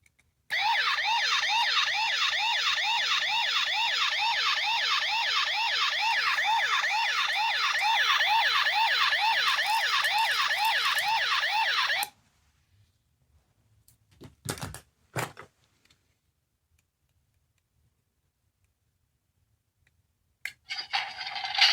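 Small electronic sound toy playing a siren effect: a fast, repeating rising whine, about four sweeps a second, that cuts off suddenly after about eleven seconds. A few sharp clicks follow, and another electronic sound starts near the end.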